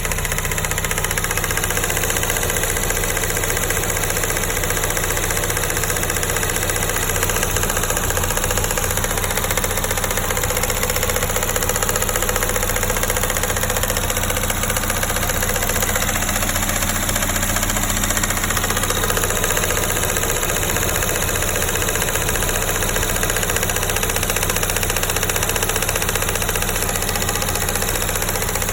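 Honda S2000's four-cylinder engine idling steadily with a ticking sound.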